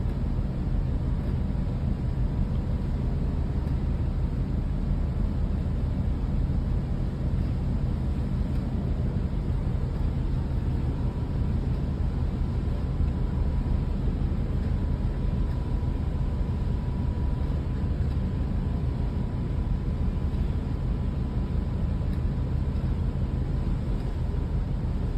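Steady low rumble of a large ship's engines and machinery, heard on board, with a faint steady whine above it.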